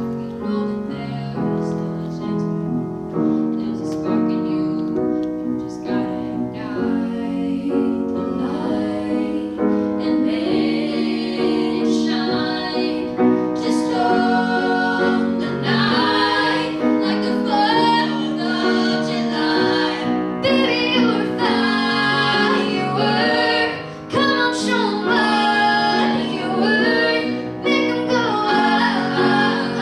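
A woman singing a melody over piano accompaniment.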